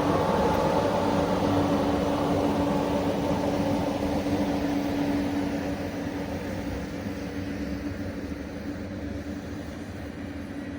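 A train running through the station and moving away: a steady rumble with a held droning tone that fades gradually.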